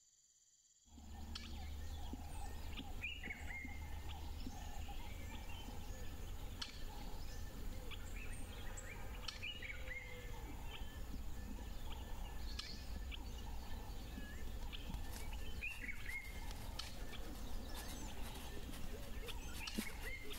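Birds giving scattered short chirps and gliding calls over a steady low rumble, with sharp ticks scattered through the second half.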